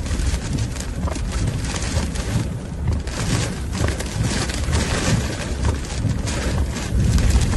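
Stormy wind gusting over the microphone, a heavy rumbling buffet over a constant rushing hiss that swells and eases from moment to moment.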